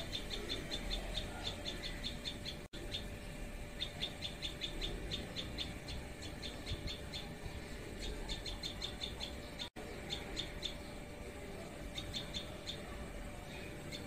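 Small birds chirping: quick runs of short, high chirps, several a second, broken by brief pauses between runs.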